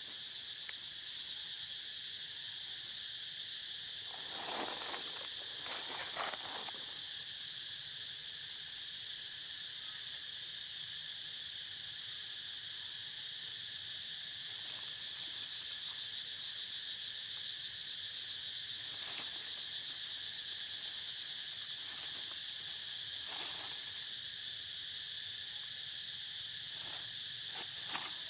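Steady, high-pitched insect chorus, a continuous shrill drone. A few brief sounds break in over it, two close together about five seconds in and a few more later on.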